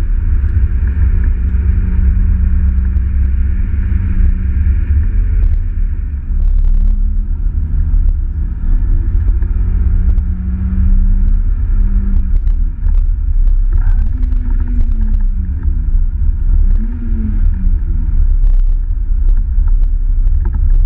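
Mazda MX-5 NA's 1.6-litre four-cylinder engine heard from inside the cabin at track speed, over a heavy low rumble. The engine note holds steady for the first half, then rises and falls several times in quick succession, with a few sharp clicks along the way.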